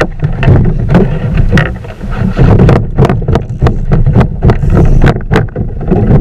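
Wind buffeting the microphone of a fishing kayak's camera as it rides choppy water. Many short sharp slaps and splashes of water against the hull sound over a steady low rumble.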